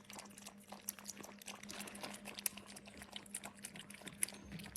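Puppies lapping and slurping milk from a dish: a quick, irregular run of faint wet clicks, over a faint steady hum.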